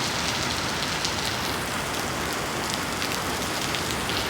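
Heavy rain falling steadily, a dense even hiss of rain on surfaces with the patter of individual drops.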